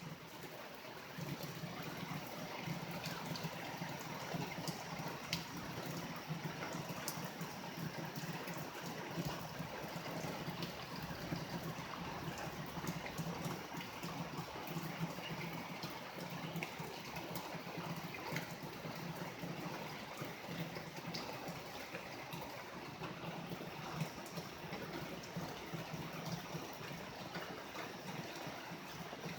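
Steady rain during a thunderstorm, with water trickling and gurgling and scattered small drips; no thunderclap stands out.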